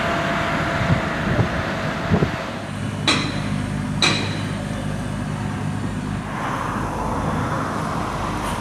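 Outdoor rumble with an engine running steadily. A few dull thumps come early, then two sharp metallic clicks about a second apart.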